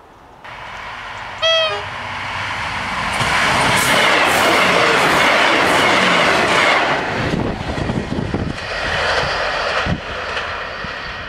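British Rail Class 158 diesel multiple unit passing close by: a short horn note about a second and a half in, then the loud rush of the train going past, louder in the middle, followed by a run of knocks from the wheels as it draws away.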